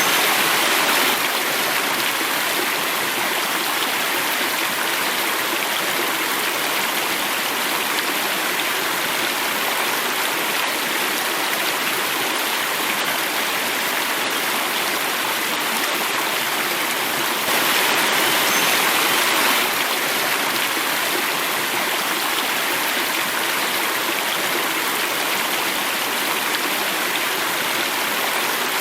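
Water running and falling in a cascade: a steady, even rushing that swells slightly at the start and again for a couple of seconds past the middle.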